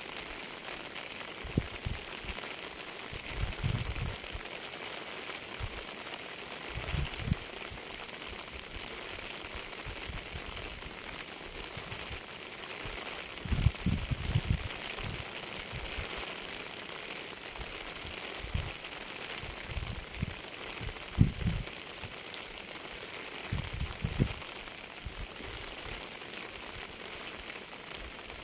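Steady rain hiss with irregular dull low thuds every second or few seconds, as of heavy drops striking a surface.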